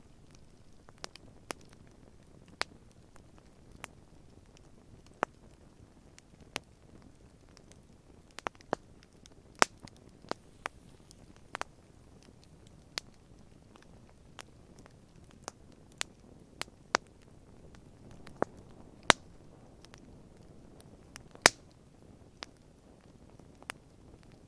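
Wood campfire crackling: irregular sharp pops and snaps, a few much louder than the rest, over a faint low hiss of burning.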